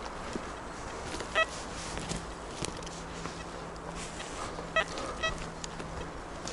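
Steady outdoor noise of wind in the forest and a busy road, with a faint low hum. Three short pitched beeps or calls rise out of it: one about a second and a half in, and two close together near the five-second mark.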